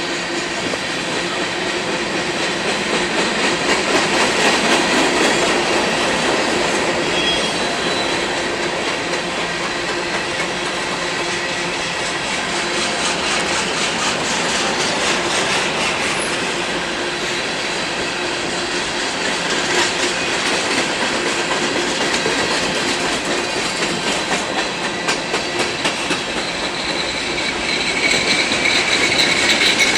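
Freight cars of a mixed freight train rolling past, their wheels clicking steadily over the rail joints. A high steady squeal from the wheels comes in near the end.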